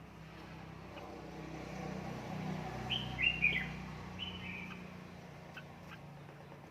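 Red-whiskered bulbul giving a short burst of quick, falling chirps about halfway through, over a low rumble that swells and fades.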